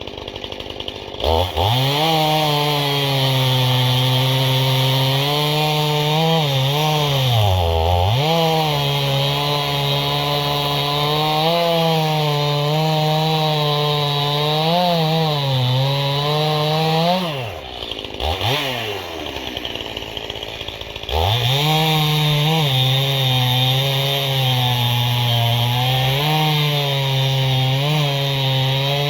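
Stihl two-stroke chainsaw cutting ash firewood rounds: it revs up from idle about a second in and runs at full throttle in the cut, its pitch sagging now and then as the chain loads up. A little past the middle it drops back to idle for a few seconds, then revs up and cuts again.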